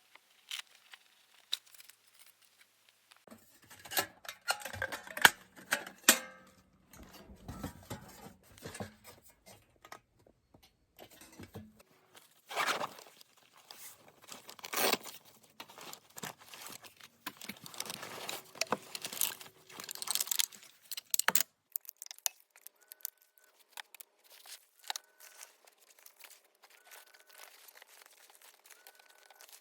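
Rustling, crinkling and clattering of gear being handled, with scattered knocks and clicks. In the last third it quietens to light clicks with a short high tone repeating every second or so.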